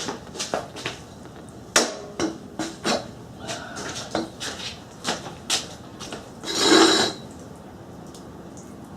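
Clanks and knocks from kicking over a 1980 Husqvarna CR390's single-cylinder two-stroke engine with the choke on, with one longer, louder rushing burst about two-thirds of the way through; the engine does not fire, and it floods.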